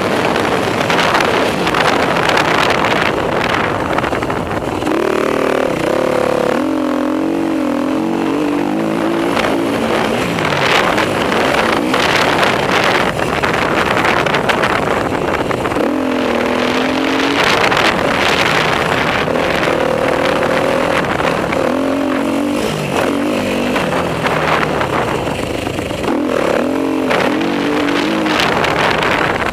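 Dirt bike engine revving up and down as it rides a motocross track, its pitch repeatedly climbing and dropping, over a loud rushing noise.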